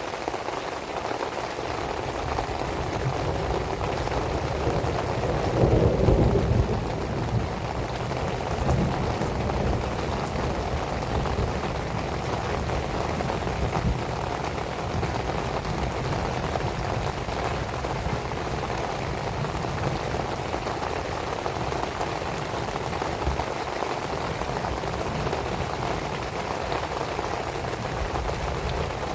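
Steady rain falling, with a wood fire crackling softly underneath. About six seconds in, a louder low rush swells for a second or two.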